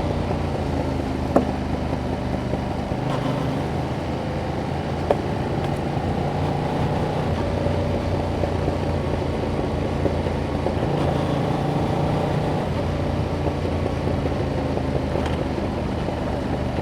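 2021 Yamaha MT-07's 689 cc parallel-twin engine running through its stock exhaust on the move, its note holding mostly steady with small shifts in pitch. Two sharp clicks sound, about a second and a half and five seconds in.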